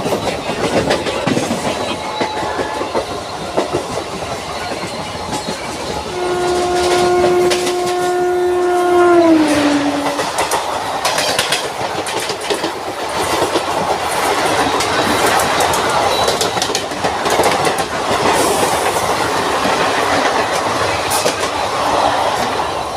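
Suburban electric local train running, its wheels clattering over the rail joints. A train horn sounds for about four seconds about a quarter of the way in, dropping in pitch as it stops.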